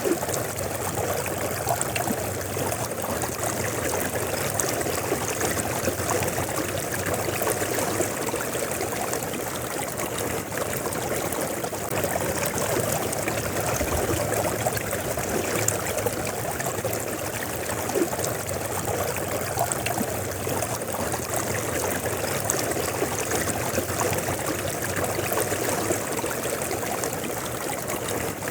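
River water flowing and splashing, a steady rushing with close bubbling and trickling.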